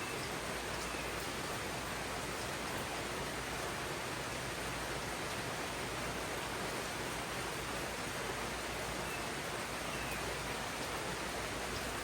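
Steady rain falling in a tropical rainforest, an even, unbroken hiss.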